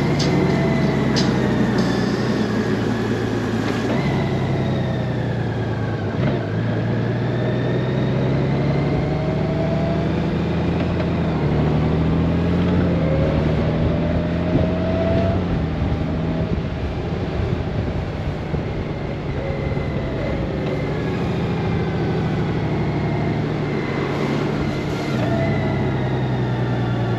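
Honda Gold Wing flat-six engine running under way, its pitch rising and falling gently as the bike speeds up and eases off, over a steady rush of riding noise.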